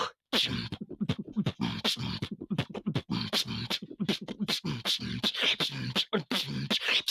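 Beatboxing by a performer who is sick: a fast, continuous run of vocal kick, snare and hi-hat sounds mixed with short hummed bass notes.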